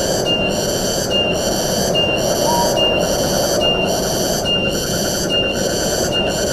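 Steady rush of wind through the forest, with a high, buzzy call repeating a little more than once a second and one short whistled note about halfway through.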